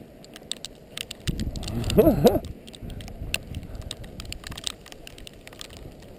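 Dogs playing in deep snow: a scatter of small clicks and jingles from their collar tags and movement, with one short wavering vocal sound from a dog, a play grumble or whine, about a second and a half in, the loudest moment.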